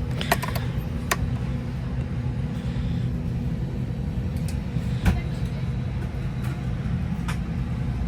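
Steady low hum inside the cabin of an Airbus A320-215 waiting to depart, broken by a few sharp clicks near the start and a louder knock about five seconds in.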